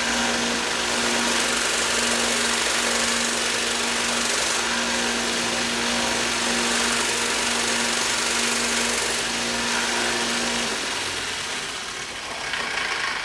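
Electric knife-sharpening grinder running steadily, with a constant motor hum over a dense abrasive hiss as a fine, near-polishing grit works the blade. The motor shuts off about eleven seconds in and the sound dies away.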